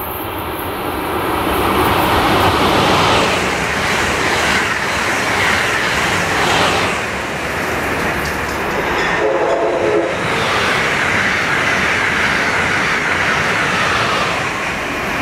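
Amtrak Acela Express high-speed electric trainset passing at speed: a loud, steady rush of wheels on rail and air. A short horn note sounds a little past the middle.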